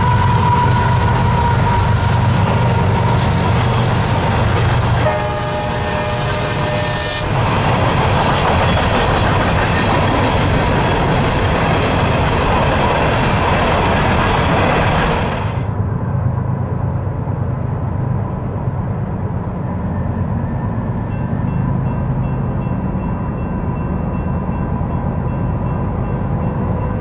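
Freight train of hopper cars rolling past on the rails, with a train horn sounding at times. About halfway through, the sound turns abruptly duller, leaving a steady low rumble.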